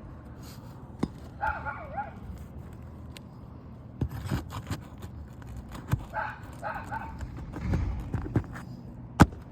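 A dog barking in two short bouts, about a second and a half in and again around six seconds in, over scattered knocks and taps of nails being worked out of asphalt roof shingles, with one sharp knock near the end.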